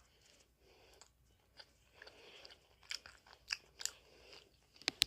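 A person chewing a See's candy: faint, scattered short clicks from the mouth, the sharpest near the end.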